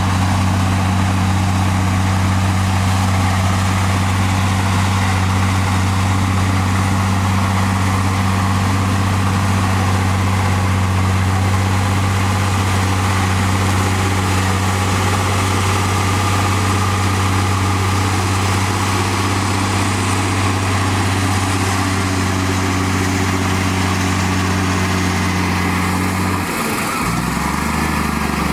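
Komatsu D58E bulldozer's diesel engine running steadily under throttle, then dropping to a lower pitch near the end as the revs fall.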